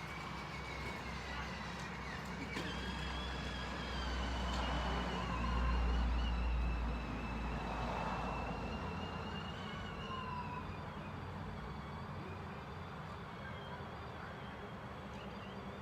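Electric dirtbike's motor whining as it rides, the pitch wavering with speed and climbing again near the end, over a low rumble from the tyres and ground.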